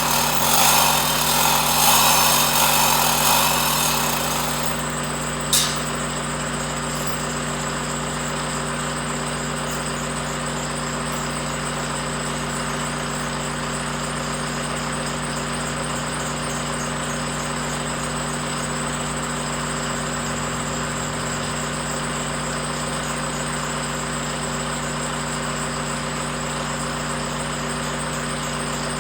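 A power tool runs loudly for the first few seconds and winds down, followed by a single sharp click. After that a steady mechanical hum carries on at an even pitch.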